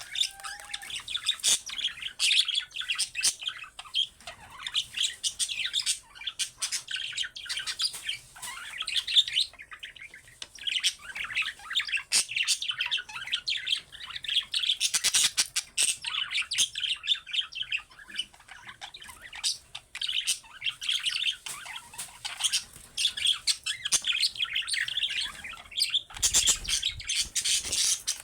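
Budgerigars chattering and chirping without a break: fast warbles, squeaks and clicks that overlap one another.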